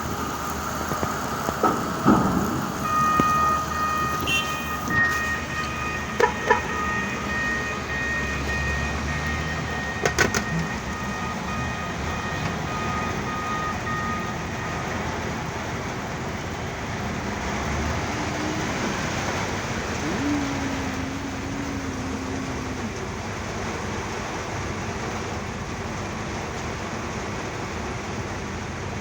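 Heavy rain falling steadily, heard from the truck, with a few sharp knocks in the first ten seconds and a steady machine whine from a few seconds in until about halfway.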